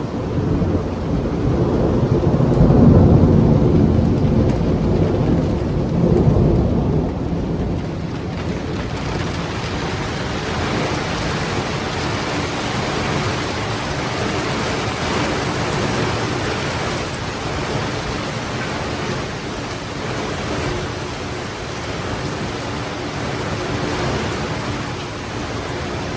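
Thunder rolling from a sudden downpour thunderstorm, loudest about three seconds in with a second swell about six seconds in, dying away by about eight seconds. Heavy rain falls steadily throughout and carries on after the thunder fades.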